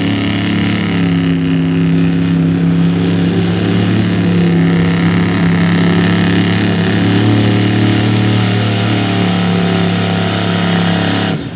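A GMC diesel pickup's engine running hard at high revs under full load as it pulls the sled, holding a steady pitch, then cutting off suddenly near the end.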